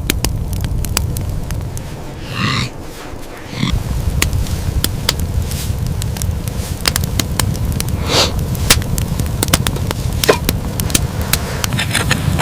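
Wood fire crackling with many sharp pops over a low, steady rumble, with a short animal call about two seconds in and again about eight seconds in.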